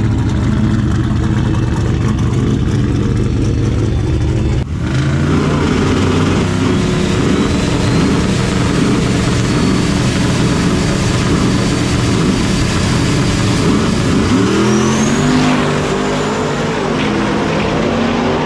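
Modified pickup truck engines, a Dodge Dakota among them, running loud at the drag strip's starting line as the trucks stage, with a sudden short break about five seconds in and revs rising and falling, climbing near the end.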